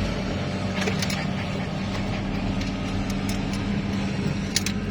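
An engine running steadily at idle with a low, even hum, and a few sharp metallic clicks over it.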